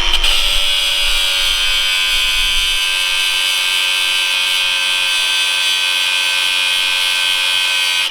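Angle grinder running at full speed with a steady high whine, grinding the rivet heads off a worn motorcycle chain link to split the chain. It starts to spin down at the very end.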